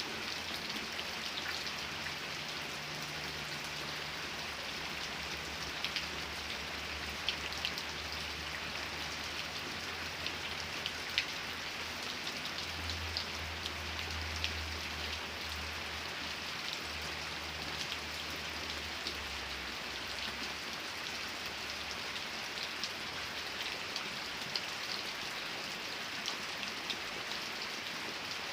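Steady rain falling, with scattered sharp drop impacts standing out. A low rumble sits underneath for most of the first two-thirds, then fades out.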